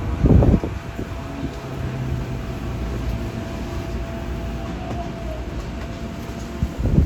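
Tokyo Metro 8000 series subway car running on the line, a steady low rumble with a faint steady tone. Two loud jolts come from the wheels and track, one about half a second in and one near the end.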